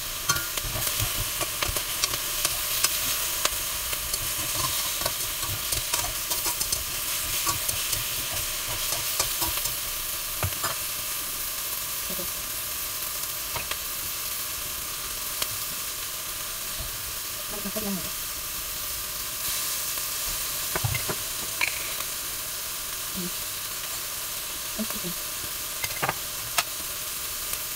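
Tofu cubes sizzling in hot oil in a stainless steel wok as they are stirred, a steady frying hiss broken by frequent short clicks and scrapes against the pan.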